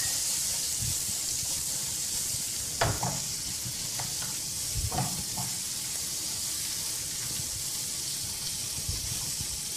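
Julienned vegetables sizzling in a very hot oiled skillet as they are sautéed with garlic, ginger and chili flakes, with a few knocks of the spatula against the pan.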